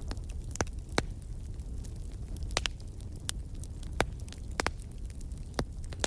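Wood fire crackling in a fireplace: sharp pops and snaps every second or so over a steady low rumble of the flames.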